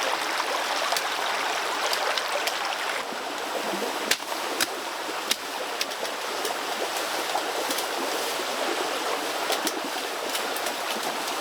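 Running water rushing steadily, like a stream, with a few sharp clicks or knocks about four to five and a half seconds in.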